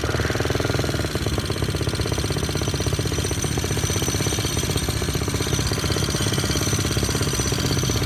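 Single-cylinder Briggs & Stratton engine on a motorized bicycle running steadily under way, a rapid, even train of firing pulses.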